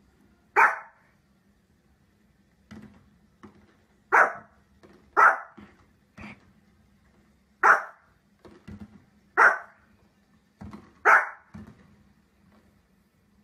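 Small white spitz-type dog barking: six loud, sharp single barks spaced one to two and a half seconds apart, with softer short sounds between them.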